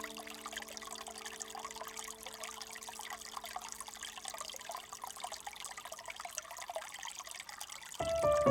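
Small stream trickling and babbling with a steady hiss. A held music chord fades away over the first several seconds, and music starts again near the end.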